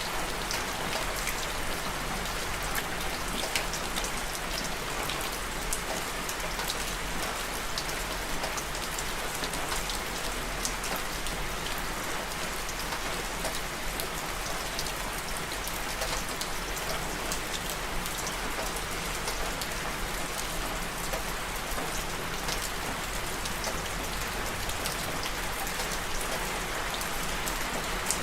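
Steady rain falling, with a dense hiss and many small drop ticks on a hard surface.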